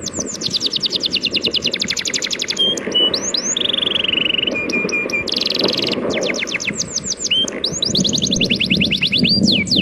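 A songbird singing fast trills of quick downward-sweeping high notes, broken by short steady whistled notes, over a steady wash of sea waves.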